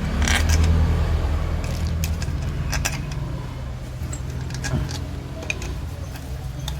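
Irregular sharp metal clicks and clinks of bolts and a hand tool as bolts are fitted into a motorcycle engine's case, over a steady low hum.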